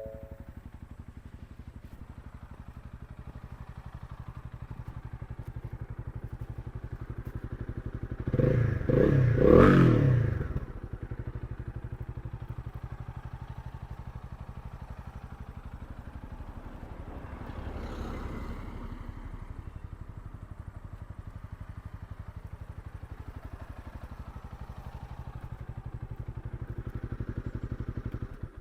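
Honda CB300R's single-cylinder engine idling with an even pulse, with a quick burst of throttle blips about eight seconds in and a milder rev near eighteen seconds. The sound cuts off suddenly at the end.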